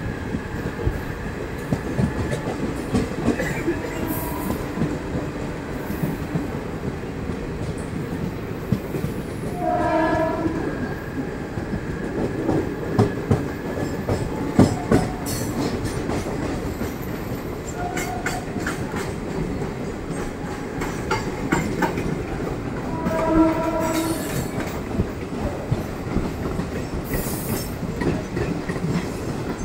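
Passenger train running at speed, its wheels rumbling and clattering over the track, heard from the open doorway of a moving coach. A multi-tone train horn blows about ten seconds in and again a little after twenty-three seconds.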